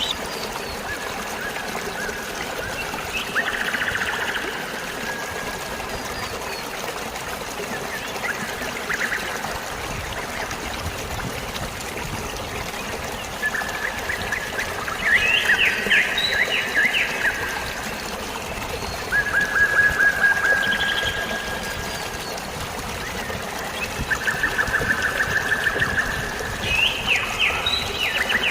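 Steady rush of running water, with birds chirping and giving short repeated trills now and again over it.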